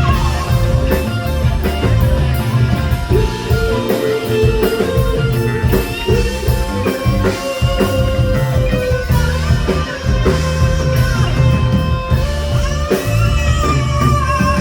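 Live progressive rock band playing, with electric guitar over bass and drum kit; the guitar holds and bends long notes.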